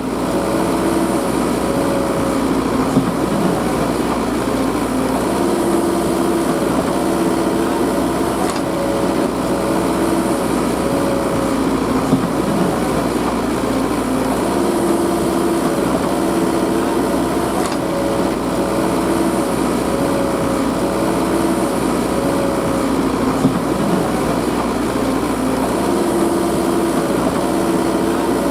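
Diesel engines of working farm machinery running steadily, with a steady tone that comes and goes every few seconds.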